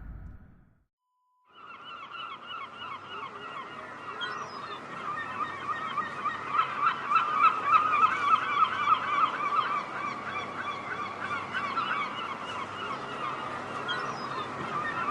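A large flock of geese honking, many calls overlapping in a continuous chorus that starts about a second and a half in. A low rumble dies away at the very start.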